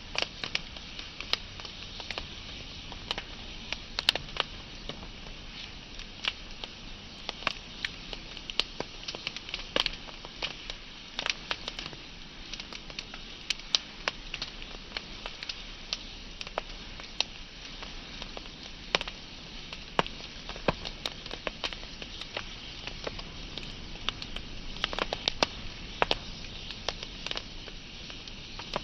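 Wood fire burning with a steady hiss and constant irregular crackles and pops.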